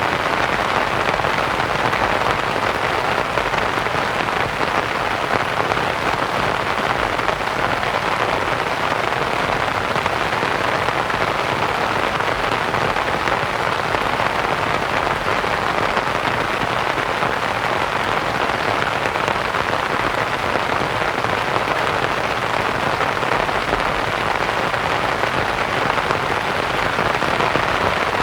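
Steady rain pattering on a canvas tent, blended with a continuous white-noise hiss.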